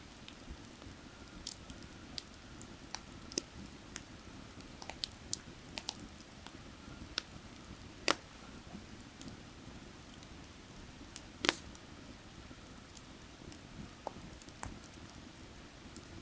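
Burning firewood crackling with scattered sharp pops, the two loudest about halfway and about two-thirds of the way through, over a steady low rush of creek water.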